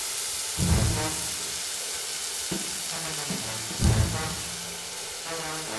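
Sizzling of food frying in hot oil, under theme music with two deep, loud hits, about a second in and about four seconds in, each followed by ringing pitched tones.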